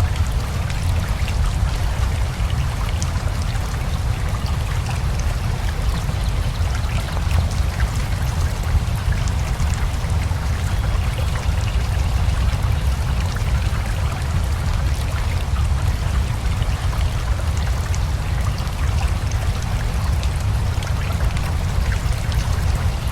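Steady rain mixed with a flowing river: an even wash of running water with a strong low rumble and a scattered patter of drops, unchanging throughout.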